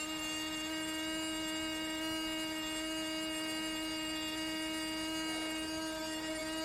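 A steady electric hum at one even pitch.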